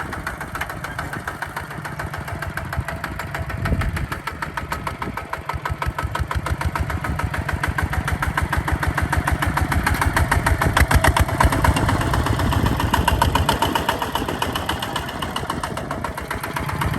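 Hinota HG Gold 155 DI tractor's diesel engine running with a rapid, even knock. It grows louder about four seconds in, and again for a few seconds near the middle.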